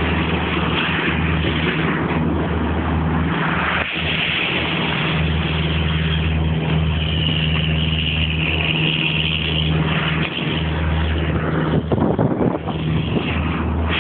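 Creel boat's engine running steadily with a low drone, under a loud rushing noise; a high steady whine joins in for a few seconds midway.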